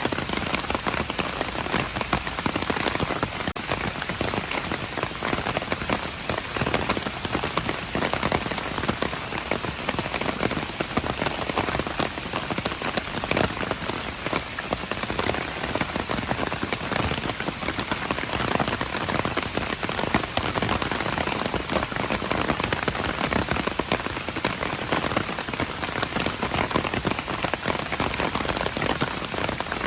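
Steady rain falling and pattering on surfaces, a dense even hiss of many small drop impacts with no let-up.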